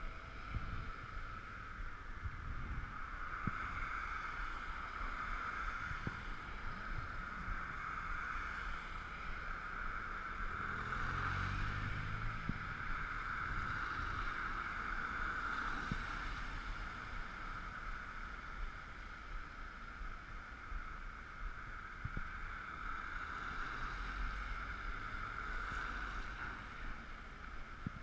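Ekoway ML5000 electric scooter riding on a wet road in the rain: a steady hiss of tyres and motor with wind rumble, heard through a GoPro housing.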